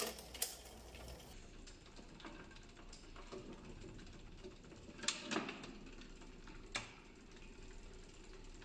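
A few scattered light mechanical clicks and taps from work on a mountain bike: one near the start, a close pair about five seconds in, and another near seven seconds.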